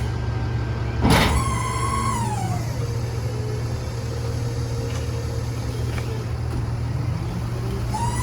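Peterbilt 348 rear-load garbage truck running, its diesel engine droning steadily. About a second in comes a sharp hiss-like burst, then a whine that falls in pitch and settles; near the end the whine rises again.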